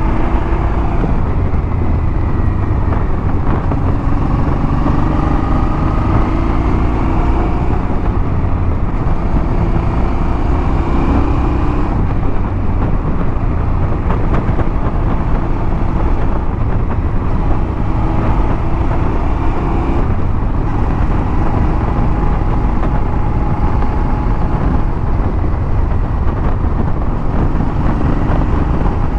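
Motorcycle engine running under way, with heavy wind noise over the microphone; the engine's pitch slowly rises and falls as the speed changes.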